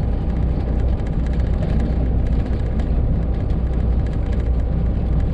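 Semi truck's Detroit Diesel Series 60 engine running under way, heard from inside the cab as a steady low rumble with road noise.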